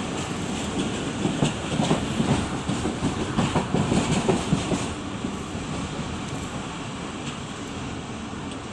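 Train running on the track, its wheels clattering over the rail joints in a quick run of knocks for the first few seconds, then settling to a steadier rumble.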